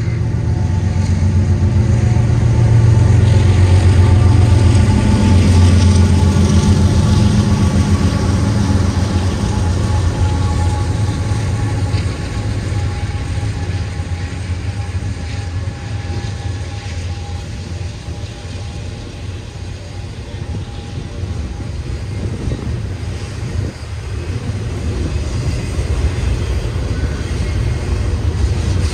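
Freight train passing close by. The low drone of its three GE diesel locomotives (an ES44AC leading a Dash 9-44CW and an AC44C6M) is loudest in the first several seconds. It then gives way to the steady rumble and clatter of double-stack container cars rolling over the rails, which grows louder again near the end.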